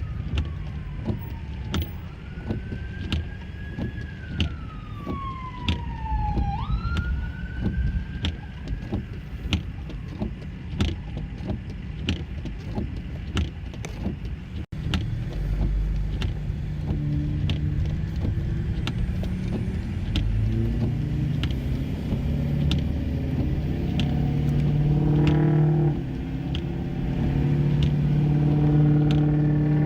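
Car moving with steady road rumble and frequent short clicks; an emergency-vehicle siren wails down and back up in the first several seconds. After a sudden break about halfway, a steady low hum with pitched tones takes over.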